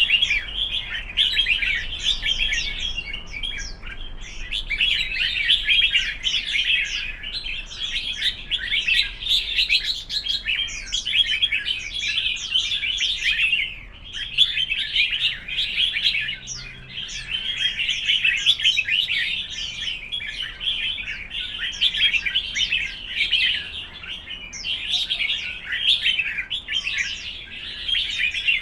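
Red-whiskered bulbul singing competitively, a dense run of fast, chattering chirps and whistled notes broken only by brief pauses.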